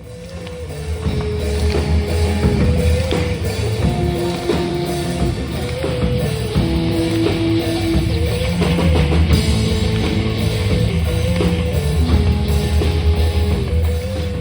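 Rock music with drum kit and guitar, fading in over the first second.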